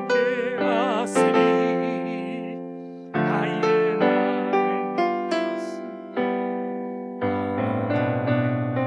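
Electric piano playing slow chords, each chord struck and left to fade before the next.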